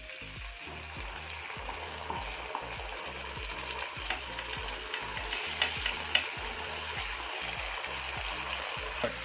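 Onions, green chillies and sauces sizzling in hot oil in a nonstick wok as they are stirred and sautéed with a slotted spatula. The hiss is steady, with a few light taps of the spatula against the pan.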